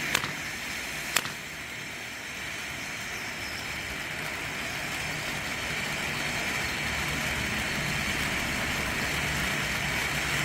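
Firework fountain spraying with a steady hiss that slowly grows louder, with two sharp pops in the first second or so.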